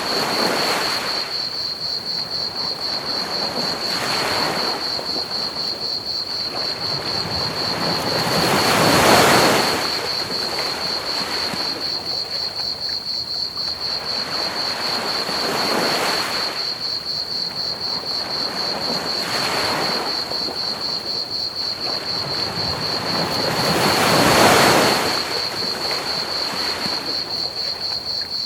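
Ocean waves breaking and washing up the beach in slow surges every few seconds, the biggest about nine seconds in and again near the end. Over them is a steady, rapidly pulsing high cricket chirping and an even hiss of pink noise.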